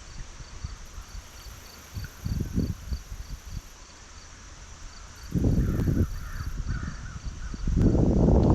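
Low rumbling gusts of wind on the microphone, three times, with faint bird calls in the middle and a steady pulsing insect chirp behind.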